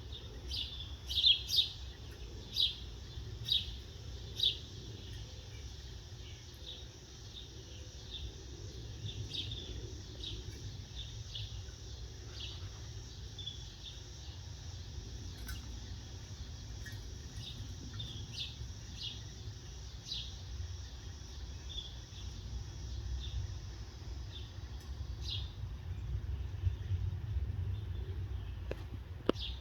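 Small birds chirping: short high chirps, a quick run of them in the first few seconds, then scattered, over a steady low rumble. One sharp click near the end.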